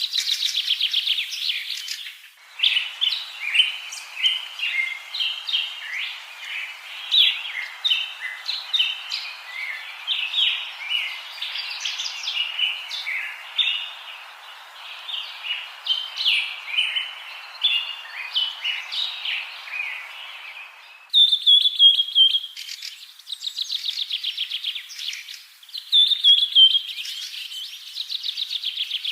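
Pet parrots, the small cage-bird kind such as cockatiels and budgerigars, chirping and chattering continuously in quick, overlapping high calls with rapid trilled runs. A steady hiss sits beneath the calls for most of the middle and stops about two-thirds of the way through.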